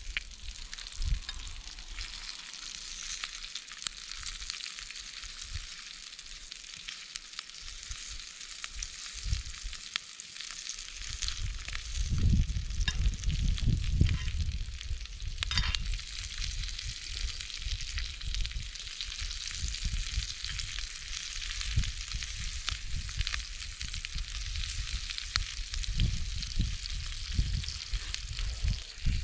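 Food sizzling as it fries in a pan, a steady high hiss with small crackling ticks. A low rumbling joins about a third of the way in.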